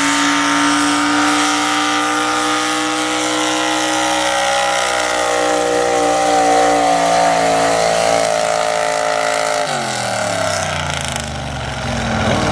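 Pulling truck's engine held at high revs under load while dragging a weight-transfer sled. About ten seconds in, the revs fall away sharply as the driver lets off at the end of the pull, and the engine settles much lower.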